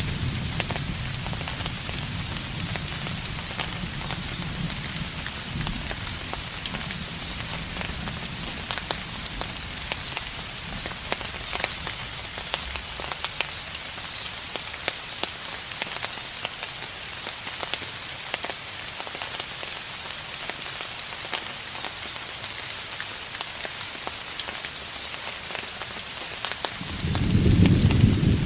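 Steady rain with many individual drops pattering, under a distant thunder rumble that fades away over the first few seconds; another low roll of thunder swells up near the end.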